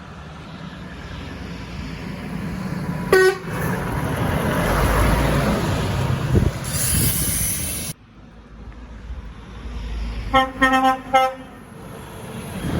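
A passing truck's horn sounds one short blast about three seconds in, followed by the rushing noise of the truck going by. After a break, a truck horn gives four quick toots near the end.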